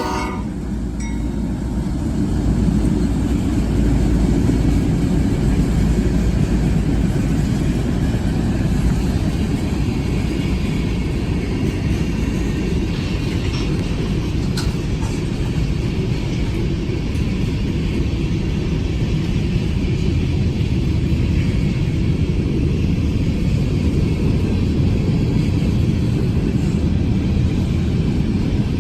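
Mixed freight train rolling past with a steady low rumble.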